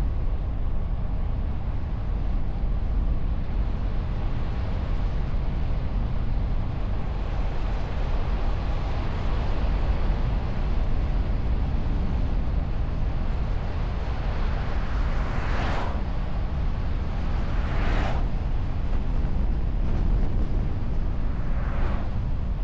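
A car driving along the road, heard from a camera mounted on its bonnet behind a wind muff: a steady low rumble of tyres, wind and engine. Three brief whooshes come in the second half.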